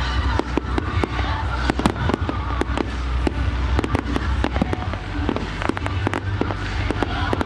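Fireworks going off in a rapid, irregular run of sharp bangs and crackles, several a second, over a steady low rumble.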